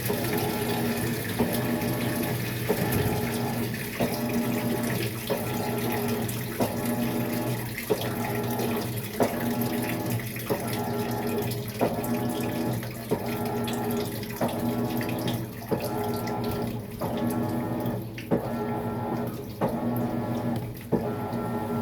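Maytag MVWX655DW1 top-load washer running its tub clean cycle: water swishing in the tub over a motor hum. The hum dips and comes back in a steady rhythm about once every 1.3 seconds, the drive turning one way and then the other.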